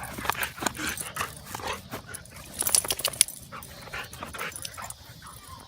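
A dog making short, irregular vocal noises while playing. Sharp clicks sound about halfway through and are the loudest part.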